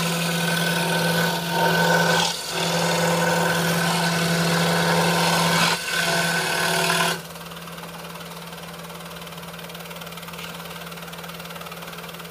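RBI Hawk scroll saw running, its fine skip-tooth blade cutting Baltic birch plywood with a steady humming rasp that dips briefly twice. About seven seconds in the cutting noise stops and a quieter steady hum continues as the piece comes free.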